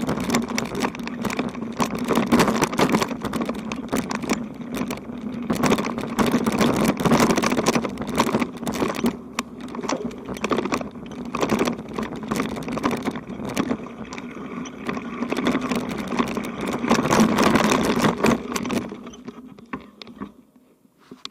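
Bicycle rolling over a rough dirt road, with tyre noise and dense rattling and knocking from the bike, fading out near the end.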